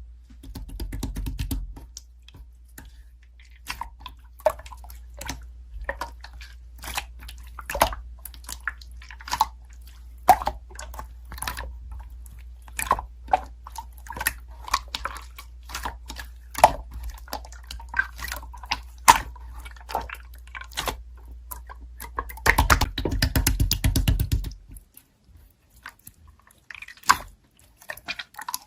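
Slime being squeezed and pressed by hand: irregular sticky clicks and pops, with a denser run of crackling about three-quarters of the way through.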